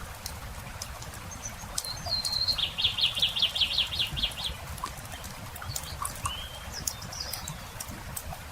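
A songbird sings about two seconds in: a short high note, then a rapid trill of about ten notes. A shorter call follows later. Throughout, a campfire crackles with scattered sharp pops over a low steady rumble.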